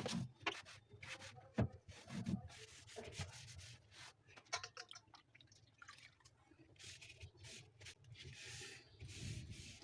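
A damp cloth wiping the inside walls of a refrigerator: faint, irregular rubbing strokes with a few light knocks.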